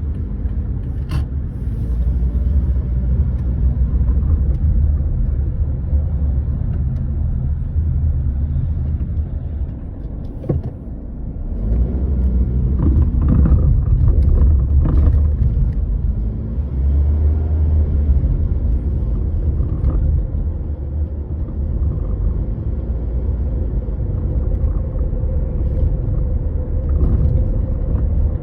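Toyota Estima ACR55W on the move, a steady low rumble that swells and eases, with a few short light knocks: the clattering from deep behind the steering wheel, traced to a worn No.2 steering intermediate shaft.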